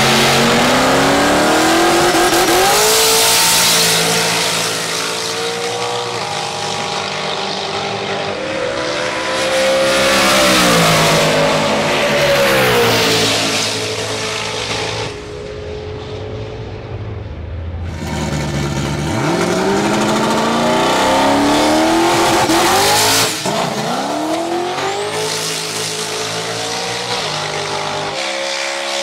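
Turbocharged 4.6-litre Ford V8 drag car accelerating and revving hard, its engine pitch climbing, holding and dropping several times, with a loud hiss over it.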